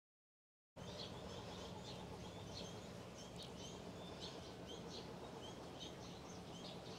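Small birds chirping in short, repeated calls over a faint steady background hiss. The sound cuts in abruptly from dead silence about a second in.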